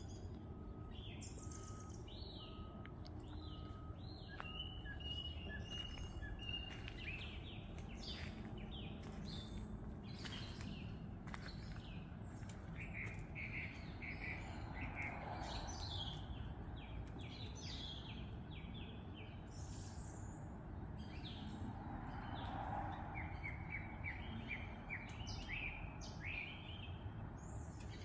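Wild birds chirping, trilling and calling in a morning chorus over a steady low background rumble, with runs of quick repeated chirps about halfway through and again near the end.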